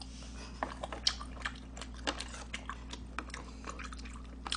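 Close-up chewing of spicy tteokbokki: irregular, sharp wet clicks of biting and mouth sounds. A steady low hum runs underneath.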